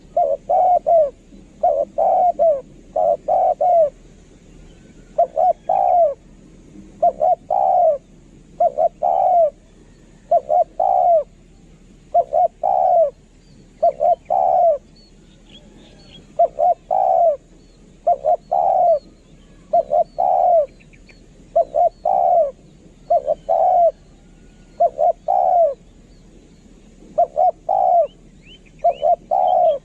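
Spotted dove cooing: short phrases of two or three low coos, repeated about every two seconds, in a recorded lure call for spotted doves. Faint chirps of small birds come and go behind it.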